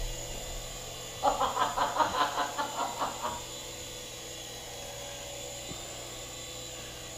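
Small indoor RC helicopter's electric motor and rotor whirring steadily as it hovers low on a nearly flat battery. From about one to three seconds in, a louder run of quick, repeated pitched chirps sounds over it.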